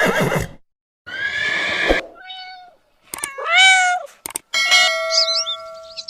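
A string of short animal calls cut one after another, with abrupt breaks and a brief silence between them; the loudest is a rising call about halfway through. Near the end, quick bird chirps sound over steady held tones.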